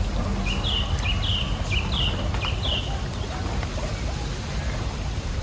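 An eagle calling: a run of five short, high, piping whistles, about two a second, in the first half. A steady low rumble and wind noise run underneath.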